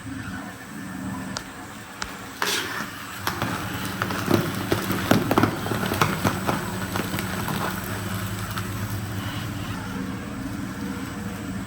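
Industrial shredder running with a steady motor hum, breaking up material with a burst of sharp cracks and snaps from about two seconds in to about seven seconds, loudest around the middle.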